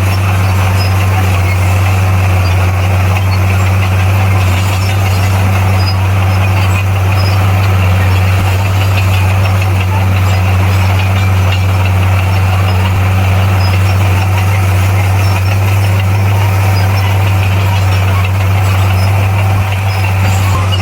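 Bulldozer's diesel engine running at a steady pitch, a loud, constant low hum with no revving or pauses.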